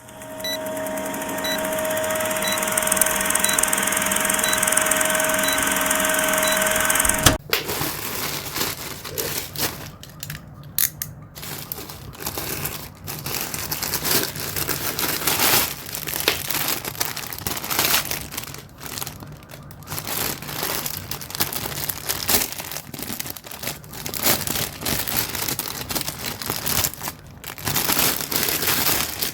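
A steady hum with several held tones for about the first seven seconds, cutting off suddenly. Then packaging is handled and opened: irregular crinkling and rustling of plastic or paper wrapping, with some tearing.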